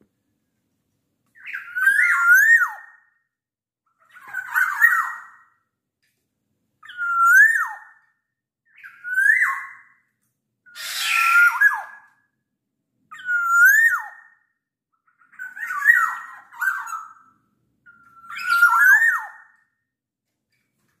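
Black-naped oriole singing: eight short, fluting whistled phrases that glide up and down, each about a second long with a pause of a second or two between. One phrase near the middle carries a harsh, raspy note.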